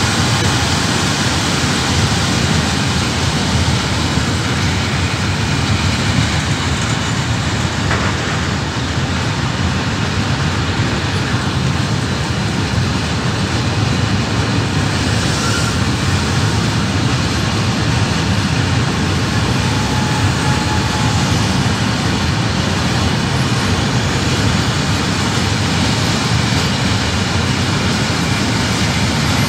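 Long freight train of high-sided Eanos open wagons rolling past at close range: a steady, loud noise of wagon wheels running on the rails.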